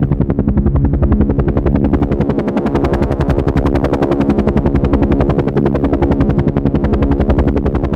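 Helicopter in flight: its rotor blades make a rapid, even chop over a steady engine drone.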